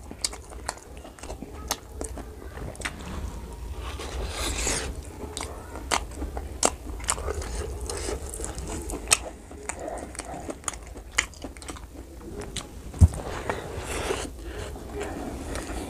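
Close-miked eating sounds of pork curry and rice eaten by hand: wet chewing and lip smacking with many sharp mouth clicks, and one low thump near the end.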